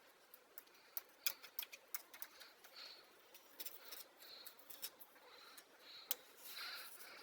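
Screwdriver scraping and clicking against metal in a motorcycle's front sprocket housing, prying out caked black grease and dirt. Faint, irregular scrapes and sharp ticks, the loudest about a second in and again near six seconds.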